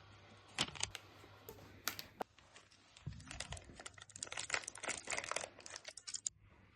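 Light clicks and crinkling of something being handled, a few at first and then a dense run from about three seconds in that stops shortly before the end.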